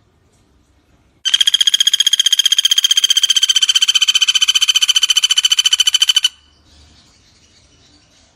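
Pelatuk bawang woodpecker call: one long, very fast, even trill at a steady high pitch, lasting about five seconds, starting and stopping abruptly.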